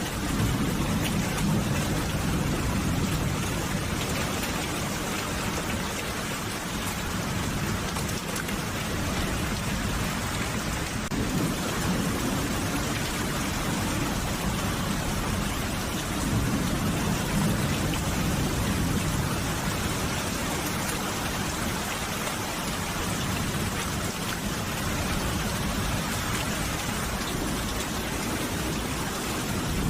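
Steady rain falling, with low rumbles of thunder swelling and fading a few times.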